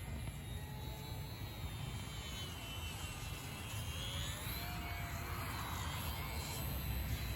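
Small electric RC aircraft motor whining overhead, its pitch rising and falling as the throttle changes, over a low rumble of wind on the microphone.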